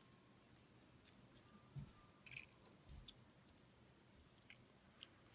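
Near silence with scattered faint clicks and two soft low thumps, from fingers handling and squeezing an edamame pod to pop the bean out.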